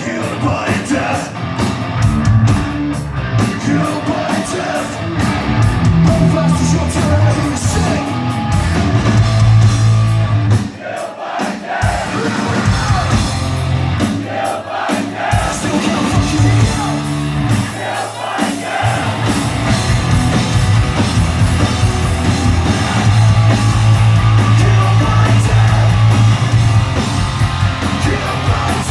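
Live hard rock band playing loud, with electric guitars, bass, drums and sung vocals. The low end of the bass and drums drops out briefly twice, near the middle.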